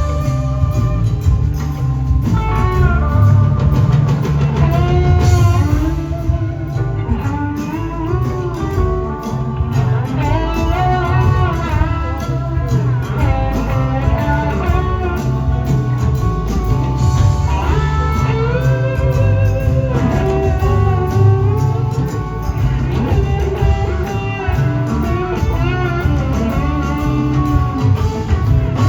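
Live blues-rock band jamming: a lead electric guitar plays long notes that bend and glide in pitch over heavy bass and drums.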